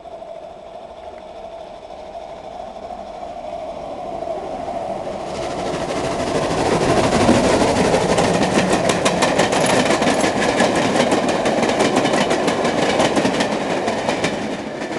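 A steam-hauled train of Travelling Post Office coaches behind an M7 0-4-4 tank engine approaches and passes close by. It grows louder from about four seconds in, with rapid clattering of wheels over rail joints through the loudest stretch, then begins to fade near the end.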